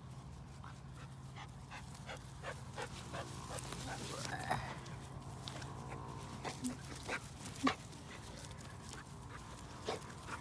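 Dogs playing: scattered clicks and taps of paws moving about, with a short whine about four seconds in.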